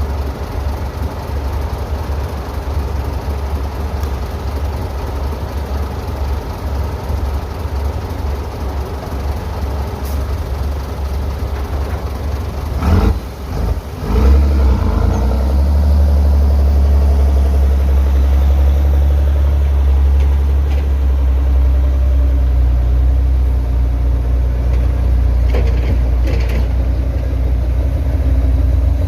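Heavy diesel engine of construction machinery running steadily. About 13 seconds in there is a brief break with a few sharp knocks, after which the engine runs louder and deeper.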